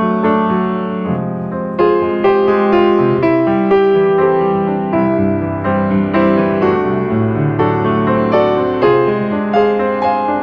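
Piano music, a steady flow of chords and melody notes with new notes struck every fraction of a second.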